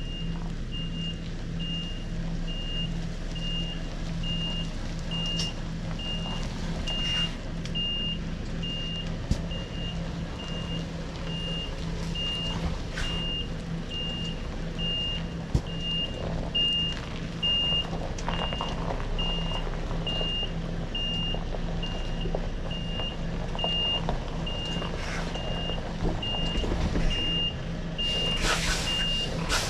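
Articulated lorry reversing: its reversing alarm beeps at an even pace over the steady low running of the diesel engine, with a short hiss near the end.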